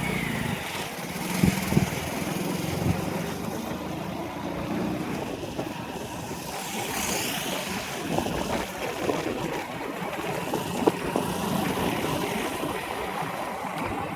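A motor vehicle running steadily on the road: engine drone and road noise, with a few short knocks along the way.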